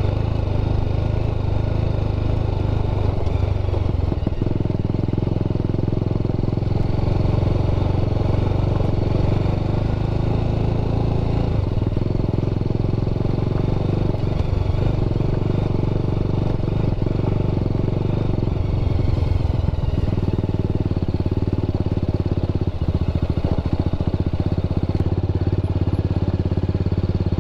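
TVS Apache RR310's single-cylinder engine running steadily as the motorcycle rides slowly along a rough dirt track, with no big changes in revs.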